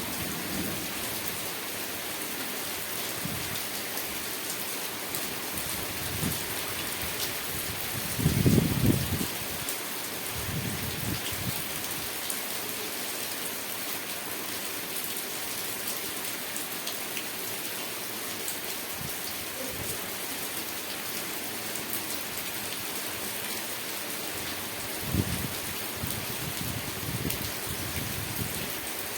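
Steady rain falling, a dense even hiss of drops. A few short low rumbles rise over it, the loudest about eight seconds in and another near twenty-five seconds.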